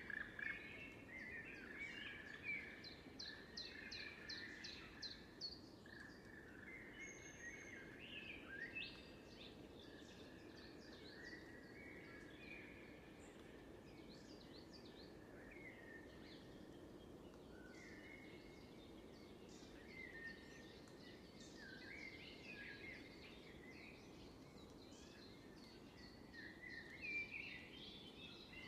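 Several songbirds singing and calling at once, with overlapping chirps, rapid trills and short whistled phrases, over a faint steady low background noise.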